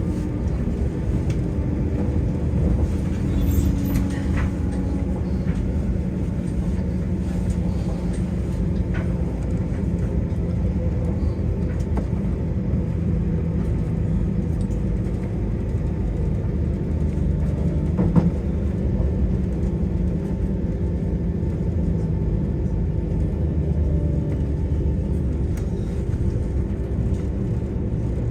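Class 172 diesel multiple unit heard from on board: a steady rumble of the underfloor diesel engine and wheels on the rails, with a faint hum and a couple of sharp clicks from the track, one a few seconds in and one about two thirds of the way through.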